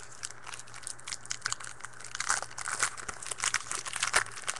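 Trading card packs being opened and handled: plastic wrappers crinkling and tearing and cards rustling, in a run of quick crackles that grows busier about a second and a half in. A faint steady electrical hum lies underneath.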